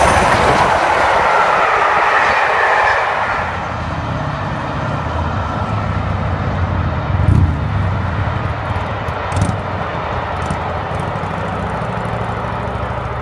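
Passenger train behind an A4 steam locomotive passing at speed: a loud rush of wheels and coaches close by for the first few seconds, then a lower, more distant rumble as the coaches run on along the line. A couple of knocks come about seven and nine seconds in.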